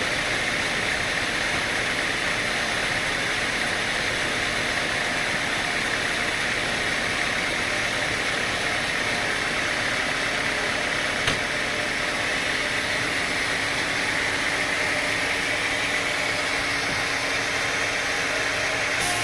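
Sawmill machinery running with a steady mechanical noise, broken by a single short click about two-thirds of the way through.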